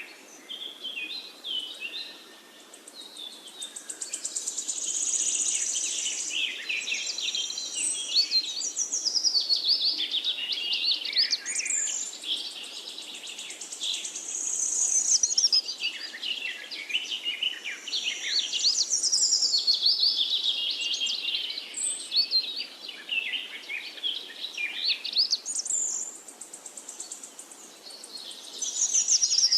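Birdsong from several birds at once: dense, high chirps and trills that overlap, swelling and fading in waves every few seconds.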